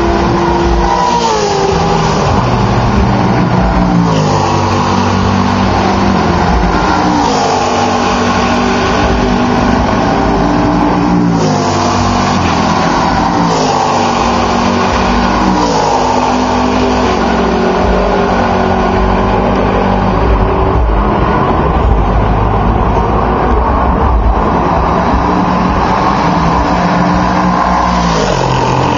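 Sports-prototype and GT race cars passing at full throttle one after another, engines at high revs; each engine note drops in pitch as a car goes by, several times, over a continuous loud engine sound from the cars around the circuit.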